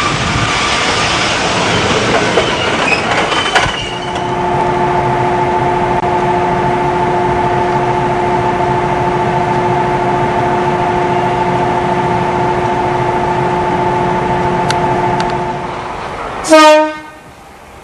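JNR 73-series electric train on the rails: running noise with wheel clicks for the first few seconds, then a steady hum with a few fixed tones for about twelve seconds. Near the end a short, loud horn blast.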